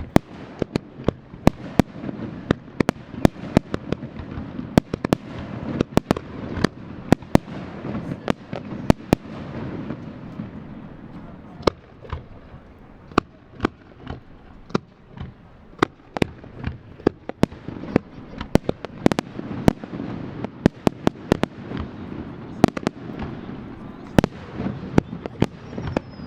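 Fireworks display: aerial shells bursting in quick, irregular succession, with many sharp cracks over a continuous low rumble of booms.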